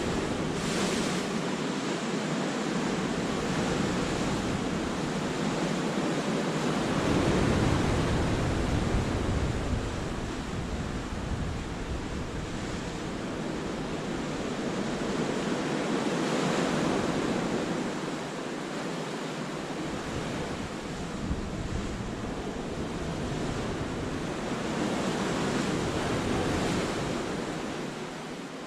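Sea waves breaking and washing over rocks and shore, a steady rushing that swells and eases about every nine seconds, with wind rumbling on the microphone at times.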